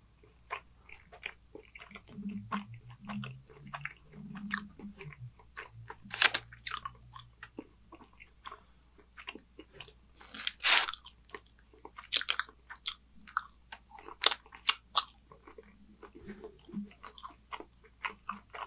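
Close-miked chewing of a mouthful of pizza: wet smacks and clicks of lips and tongue, with a few louder, crunchier bites about 6, 11 and 14 seconds in. A low hum sounds a couple of seconds in.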